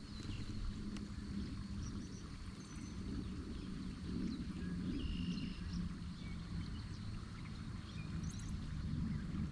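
Kayak moving on a creek: a steady low rumble, with a few faint short high chirps.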